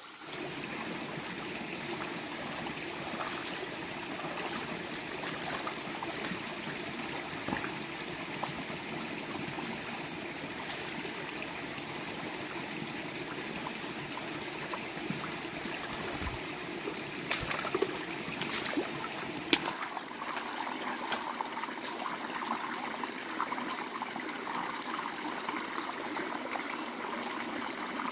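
Running water trickling steadily, with a few sharp knocks a little past the middle.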